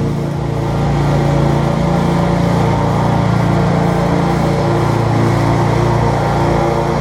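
Gasoline engine of lawn care equipment running steadily at constant speed, with an even low drone.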